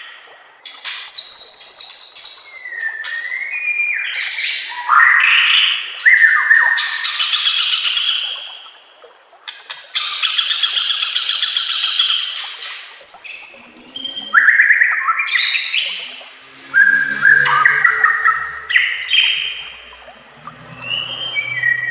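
White-rumped shama (murai batu) singing a varied song of gliding whistles, fast trills and a long rapid rattle of repeated notes.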